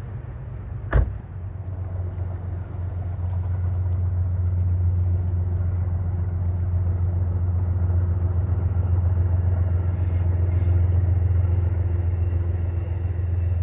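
Low, steady rumble of a passing train, building over the first few seconds and then holding. A sharp click about a second in.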